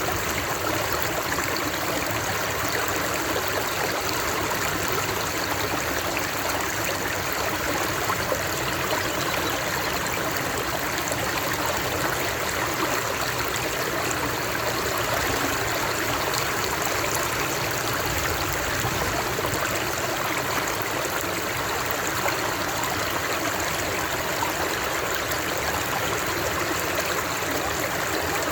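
Water flowing and splashing steadily, like a stream or small cascade, an even rushing noise with no pauses.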